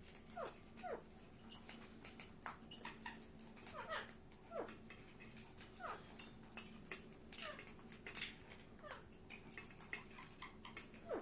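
Pet parakeet giving soft, short squeaky calls that slide down in pitch, about one a second, mixed with small sharp clicks. A faint steady hum runs underneath.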